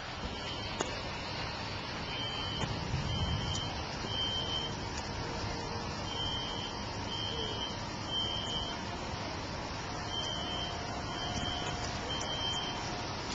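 A high-pitched electronic beeper sounding about once a second, each beep about half a second long, with a couple of longer pauses between groups, over steady background traffic or outdoor noise.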